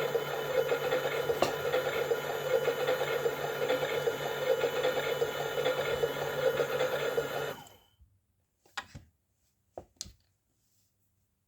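Toy washing machine's small electric motor running with a steady hum, cutting off abruptly about two-thirds of the way in. A few light clicks follow.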